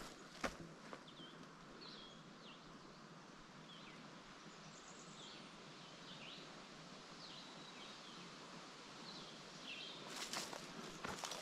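Faint forest ambience with short, high bird chirps repeating irregularly. A footstep on the trail comes just after the start, and footsteps start again about ten seconds in.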